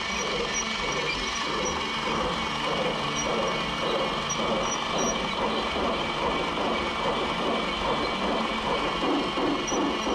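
Battery-powered G-scale toy steam locomotive running, its built-in sound unit playing steam-train effects triggered from the remote control, with a steady rhythmic chuffing.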